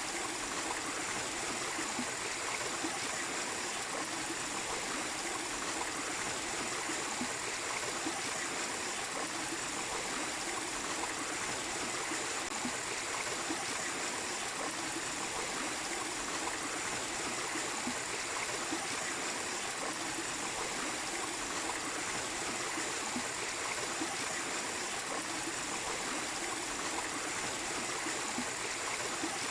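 A small waterfall and stream, water rushing and splashing steadily, with a faint steady high-pitched tone above it.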